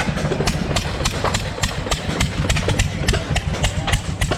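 Antique hit-and-miss stationary gas engines running, with sharp exhaust pops about three or four times a second over a steady low rumble.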